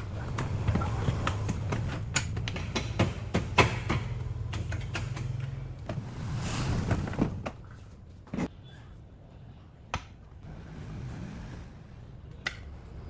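Repeated knocks and clatter over a low steady hum, which drops away about seven seconds in, leaving a few isolated knocks.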